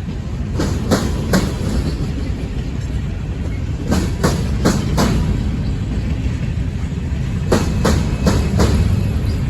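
Freight train cars rolling past with a steady low rumble. Groups of three or four sharp clicks come every few seconds as the wheel sets cross rail joints: clickety-clack.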